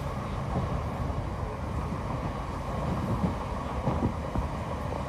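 Inside the carriage of a moving Merseyrail electric train: a steady low rumble of wheels on the track, with a few faint light clicks.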